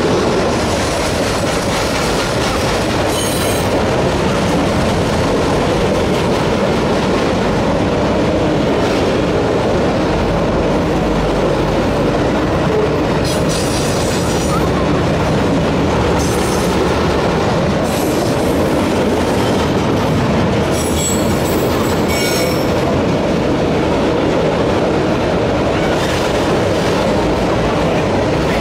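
Freight train of autorack cars rolling steadily past: a constant rumble of wheels on rail, with brief high wheel squeals about halfway through and again around two-thirds of the way.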